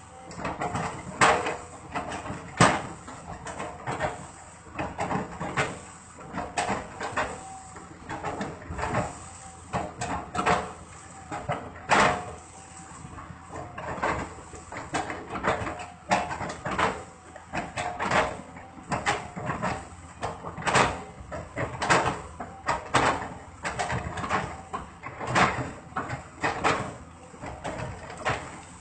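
Paint being chipped off with a hand tool: irregular sharp knocks and scrapes, one or two a second, some with a short metallic ring.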